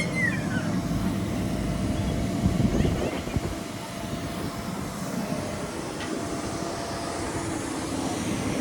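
A vehicle engine rumbling outdoors, swelling from about one to three and a half seconds in, then falling back to a lower steady background. A short high chirp sounds right at the start.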